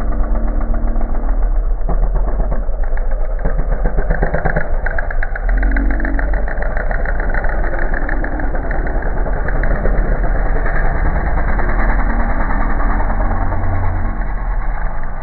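Motocross bike engines running and revving as the bikes race.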